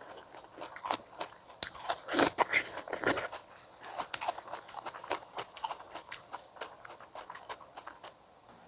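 A person biting into crisp fresh stone fruit and chewing it close to the microphone: two loud crunches about two and three seconds in, then a run of small juicy chewing clicks that fades toward the end.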